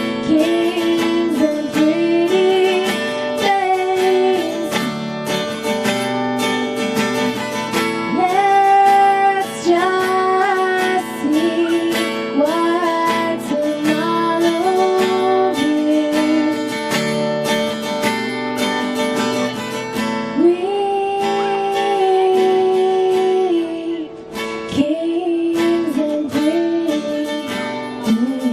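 Music led by a strummed acoustic guitar, with a melody line carried above it.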